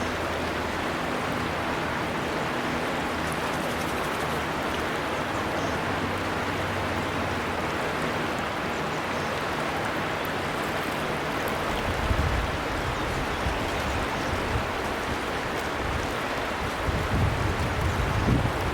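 River water flowing steadily, an even rushing sound, with low rumbling bumps now and then in the second half.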